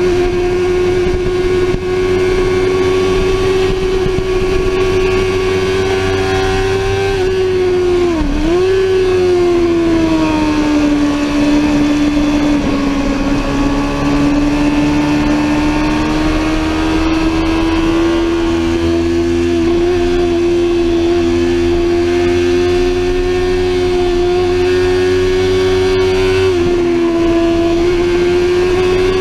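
Sportbike engine running hard at high revs, a steady high drone. About eight seconds in the pitch drops sharply and comes back, then climbs slowly; near the end it steps down briefly.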